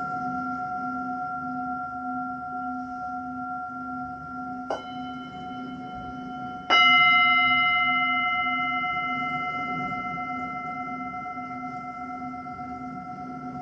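Singing bowls ringing with long sustained tones and a slow wavering low hum; a light strike about four and a half seconds in and a louder strike a couple of seconds later that rings out slowly.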